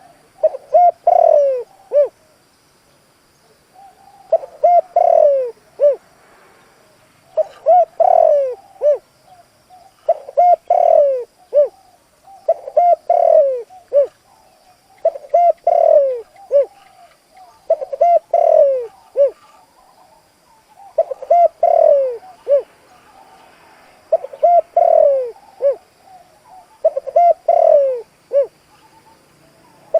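A decoy spotted dove cooing its full song over and over: about ten phrases, each of several descending coo notes, one every two to three seconds.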